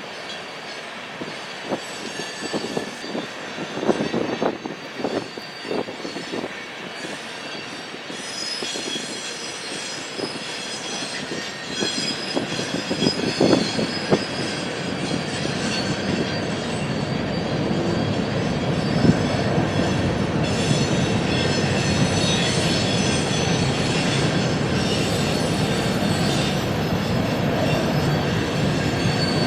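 Train rolling by on steel rails: its wheels knock over rail joints in the first half, then thin high wheel squeals join in as it grows steadily louder.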